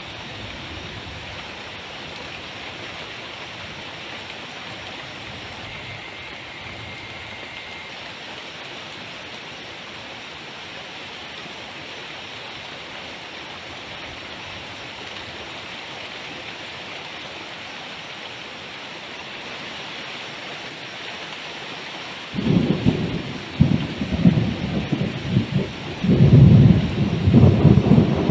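Heavy tropical rain falling steadily. About three-quarters of the way through, loud rolling thunder breaks in and rumbles on in waves.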